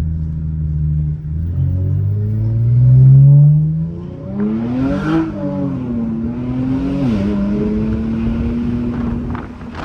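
Infiniti Q50's turbocharged engine, straight-piped by a muffler delete, pulling hard: the exhaust note climbs in pitch to its loudest about three seconds in, drops at a gear change about four seconds in, climbs again and drops once more near seven seconds, then holds steady before easing off at the end.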